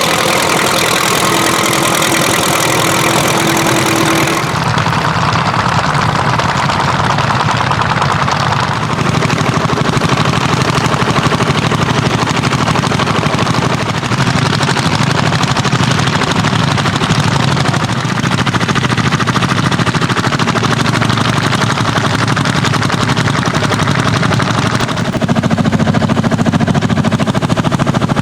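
Old tractor engines running under load, heard in a series of clips that change about four seconds in and again near the end.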